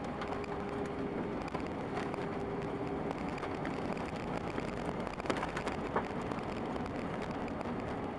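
Cabin noise inside an Airbus A319-131 airliner during landing: a steady rush of its IAE V2500 jet engines and airflow, with a steady hum and two short knocks or rattles about five and six seconds in.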